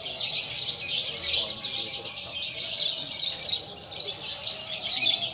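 Many caged songbirds singing at once, a dense, unbroken chorus of high chirping and trilling.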